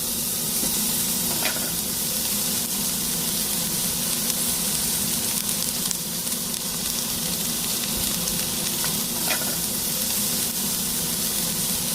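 Garlic chive and chili pancake frying in oil in a pan: a steady sizzle, with a couple of small pops.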